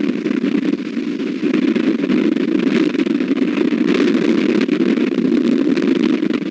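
Strong wind blowing across an outdoor nest-camera microphone: a loud, steady rushing noise.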